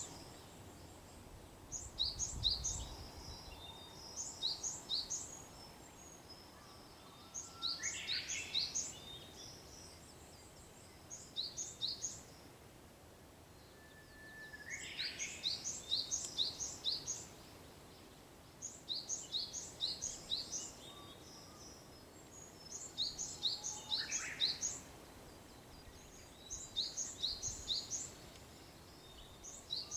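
Japanese bush warbler singing its hoo-hokekyo song three times, a held whistle leaping into a quick rising phrase. Between its songs a bird repeats short high chirping phrases every two to three seconds.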